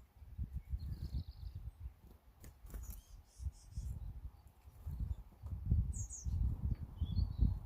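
A few short, high bird chirps, one about a second in and a couple near the end, over a louder, irregular low rumble, with a brief run of clicks midway.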